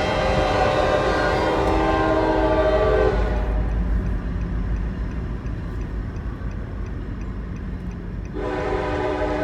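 Air horn of an EMD diesel freight locomotive sounding twice: a held chord that cuts off about three seconds in, then a second blast starting near the end. Between the blasts the diesel engine's low rumble goes on.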